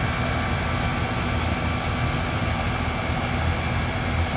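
Trane XE1000 R22 heat pump running in cooling, its condenser fan and compressor making a steady whir over a low hum while the refrigerant charge settles.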